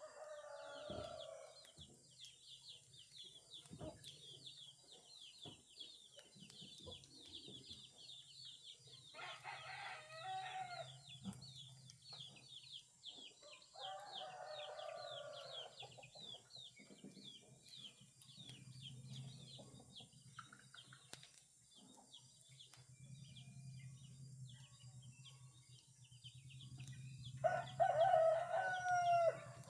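Roosters crowing, four long crows, the last and loudest near the end, over a constant chorus of small birds chirping.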